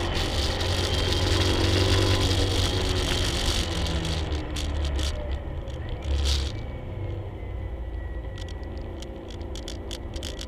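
1967 Camaro's engine heard from inside the cabin, running hard at high revs, then lifting off around four seconds in as the car slows for a corner. A quieter stretch of lower engine noise follows, with a run of sharp clicks and rattles near the end.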